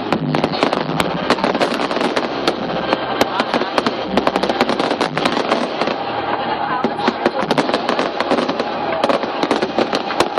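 Fireworks display going off without a break: a dense, rapid run of cracks, pops and bangs overlapping one another.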